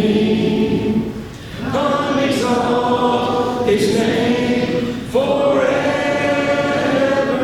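Congregation singing a hymn together a cappella, in long held notes, with short breaks between phrases about a second in and about five seconds in.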